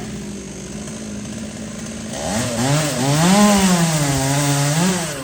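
Chainsaw running steadily, then opened up about two seconds in and cutting into a tree branch, its engine pitch rising and dipping under load before dropping back near the end.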